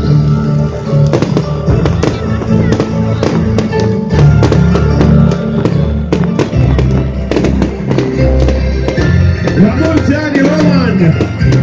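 Fireworks going off in rapid succession, many sharp bangs and crackles, over loud music with a strong bass.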